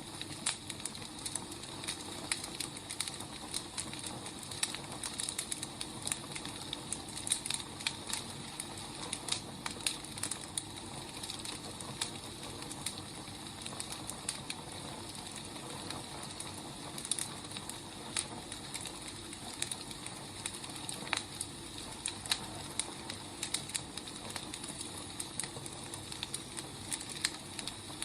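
Wood fire crackling and popping: a steady soft hiss with irregular sharp snaps several times a second.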